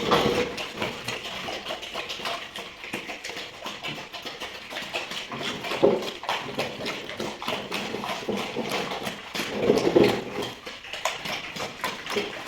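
Pigs moving about in a pen: many small clicks and knocks, with louder grunts about halfway through and again near the end.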